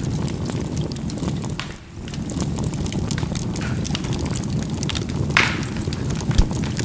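Charcoal burning in a fireplace: a steady low rumble of flame with scattered small crackles, and one sharper pop about five seconds in.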